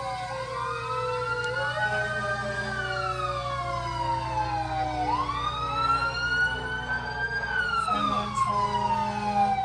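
Fire truck siren wailing, rising and falling slowly twice, with a second, fainter siren overlapping and a steady low hum underneath.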